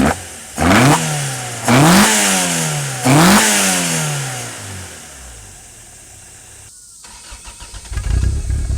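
Toyota Carina 1600GT's 2T-G twin-cam four-cylinder engine revved freely three times in quick succession, each rev rising sharply and falling back slowly toward idle. Near the end a louder, deeper steady engine sound comes in.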